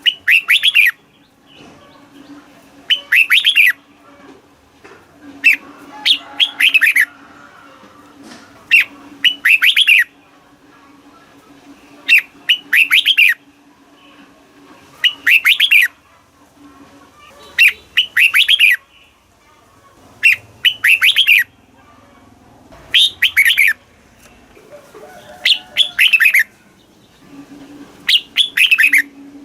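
Red-whiskered bulbul singing: short, bright phrases of quick warbled notes, repeated about every two to three seconds, with a faint steady hum underneath.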